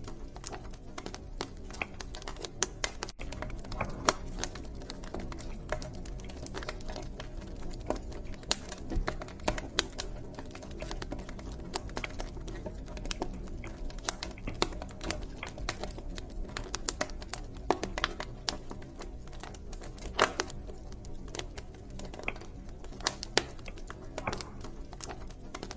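Wood fire crackling in a fireplace: irregular sharp pops and snaps several times a second over a steady low rumble of burning.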